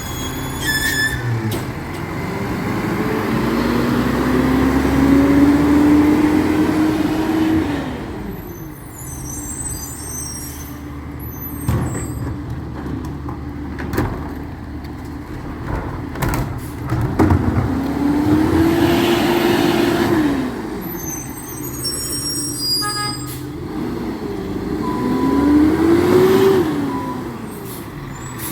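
Recycling truck's engine revving up three times, the first rise long and slow, the next two shorter. Bangs and rattling clatter come in between.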